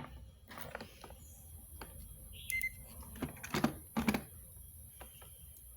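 Scattered light clicks and knocks of multimeter test probes and small parts being handled, with one very short high beep from the multimeter's continuity tester about two and a half seconds in.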